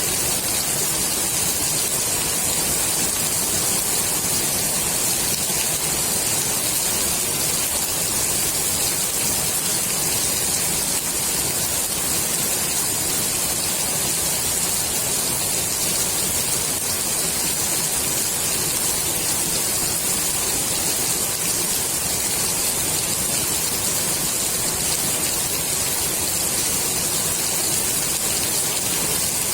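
Steady rain falling on the water of a swimming pool: an even, unbroken hiss.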